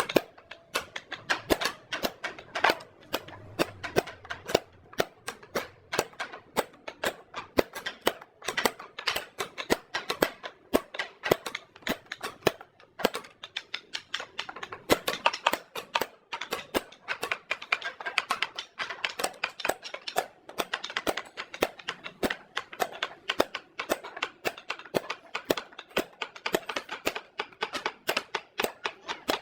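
Quick, irregular sharp taps and clicks, several a second, keeping up throughout.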